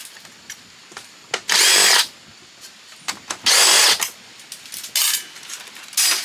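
Power drill-driver running in short bursts of about half a second, three times and starting a fourth near the end, with an even motor whine in each burst, as screws are driven out during disassembly of a fax machine. Small clicks and handling knocks come between the bursts.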